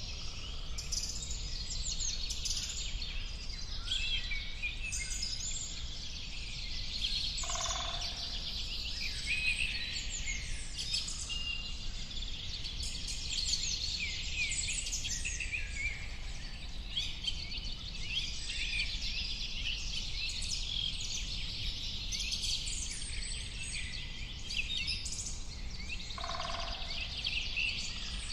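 Many birds chirping and singing at once, a dense chorus of quick high chirps and trills that never lets up, over a steady low background noise. A lower call stands out about a quarter of the way through and again near the end.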